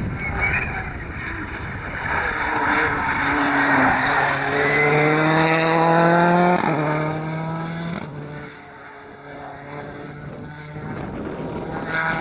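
Rally car engine at full throttle: the revs climb steadily, drop sharply at a gear change, then pull on. The sound breaks off suddenly and a fainter engine continues.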